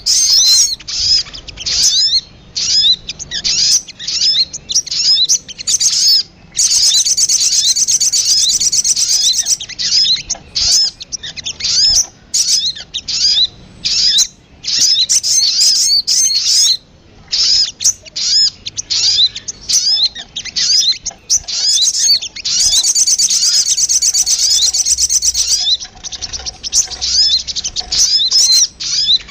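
Sogon (little spiderhunter) calls played as a bird-lure recording: a fast series of high, sharp chirps. Twice, about a third of the way in and again near the end, the chirps run together into a few seconds of rapid continuous trilling.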